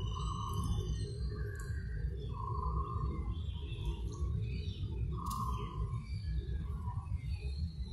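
Birds calling in short whistled notes, a few times, over a steady low rumble.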